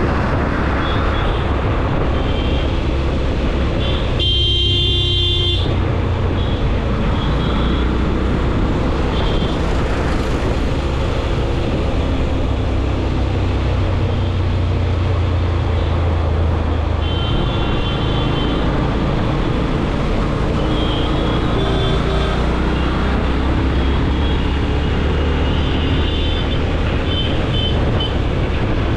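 Road traffic heard from a moving motorcycle: a steady low engine and road rumble, with vehicle horns honking briefly several times. A louder, harsher blast about four seconds in lasts over a second.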